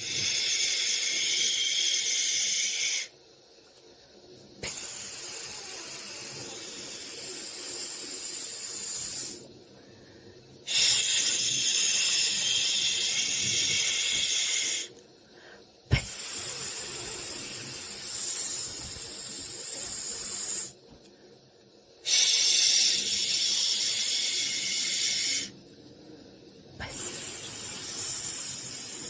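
Steady high hiss of white noise in long stretches of about four seconds, each cut by a near-silent pause of about a second and a half. A sharp click comes about sixteen seconds in.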